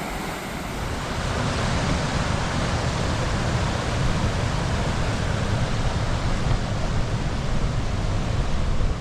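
Steady rush of whitewater at a waterfall, with a low rumble of wind on the microphone. It builds slightly over the first couple of seconds, then holds steady.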